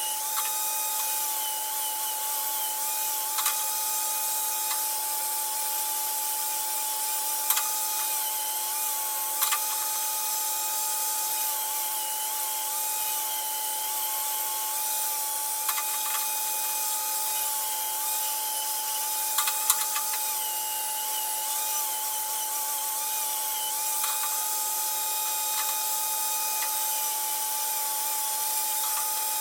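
Electric grinder running steadily with a constant whine, grinding the end of a steel tube into a fish-mouth cope, with a few sharp clicks as the work is handled.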